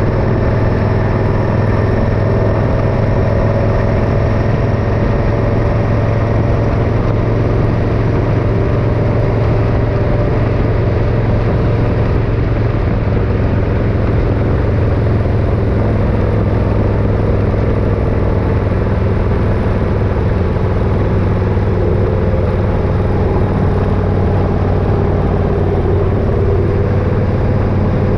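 Motorcycle engine running steadily under way, loud and even, with only slight shifts in pitch.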